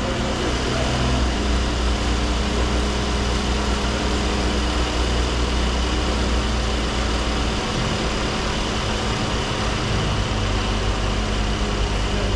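Steady hum of a car engine idling, with a deep low rumble that weakens about seven and a half seconds in.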